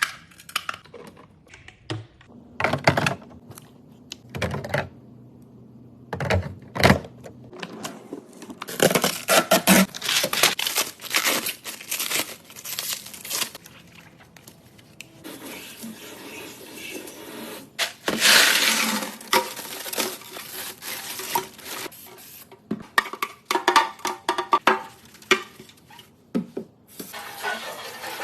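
Handling noises of unpacking: plastic wrap tearing and crinkling, with irregular knocks and clinks of hard plastic and glass parts being set down. The longest stretch of tearing comes a little past the middle.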